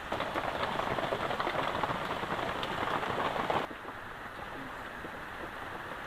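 Heavy rain falling, with many small drops ticking in a steady wash. A little past halfway it drops suddenly to a quieter, even hiss of rain.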